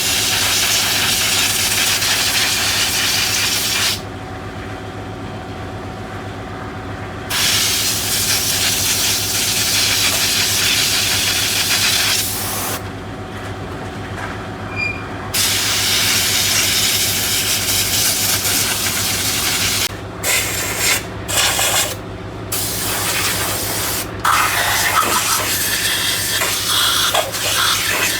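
Loud hissing spray over a steady machine hum. The spray stops for a few seconds twice, then cuts in and out in short bursts later on while the hum keeps running.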